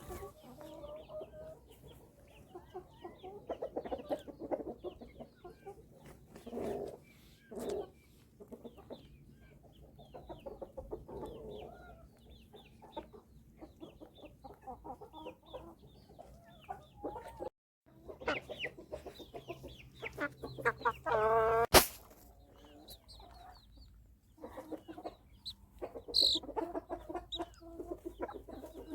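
Chickens clucking on and off, many short calls, with one louder drawn-out call about two-thirds of the way through.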